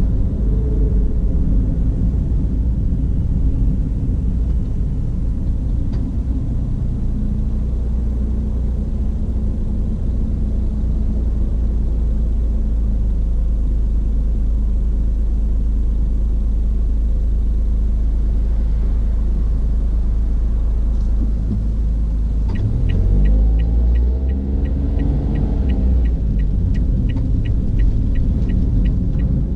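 Steady low rumble of a car's engine and road noise heard from inside the cabin while driving. About three quarters of the way through, the engine pitch rises as the car speeds up, and a regular ticking about three times a second starts and runs on.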